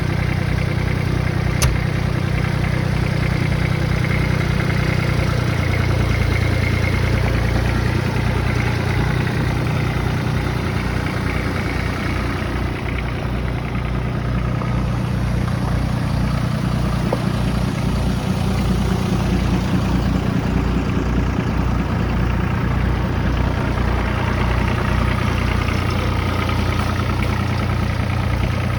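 Kubota B2100 compact tractor's three-cylinder diesel engine running steadily near idle, its speed shifting slightly a few times, with a single sharp click about one and a half seconds in.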